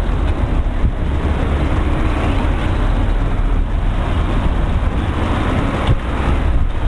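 Steady low rumble of road traffic, with a short knock about six seconds in.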